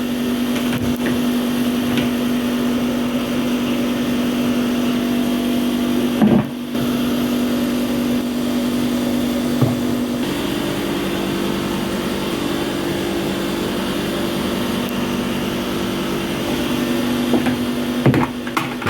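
A small motor running with a steady hum. It breaks off briefly about six seconds in, and its pitch drops slightly about ten seconds in.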